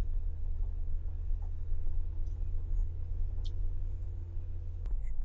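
Jeep engine and drivetrain running with a steady low rumble and a faint hum while the Jeep moves slowly along a dirt trail. The rumble eases a little near the end.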